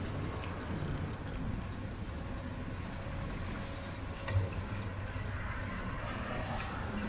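Bicycle ride: steady road and wind rumble on the microphone, with one short knock a little past four seconds in.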